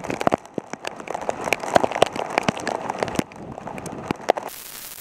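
Heavy rain striking a Contour action camera's housing right at its microphone: a dense, irregular patter of sharp drop impacts over the rush of running water. About four and a half seconds in, the patter gives way to a steady static hiss.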